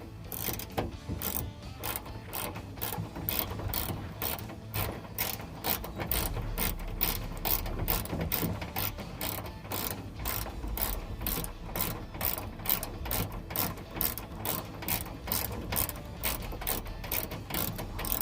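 Hand ratchet clicking steadily, about three clicks a second, as it runs in a window-motor mounting bolt.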